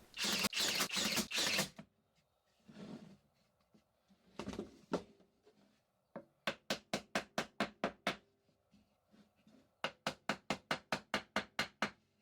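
Nail gun firing nails into the wooden posts of a bird feeder: runs of sharp cracks, the last two runs even at about six a second, with a couple of shorter bursts between.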